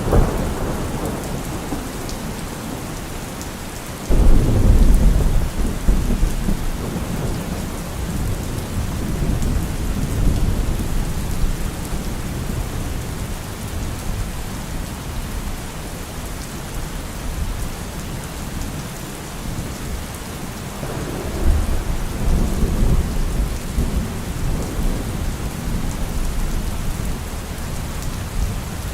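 Steady rain falling, with thunder: a sudden loud rumble about four seconds in that rolls on and fades over several seconds, and a second rumble a little after twenty seconds.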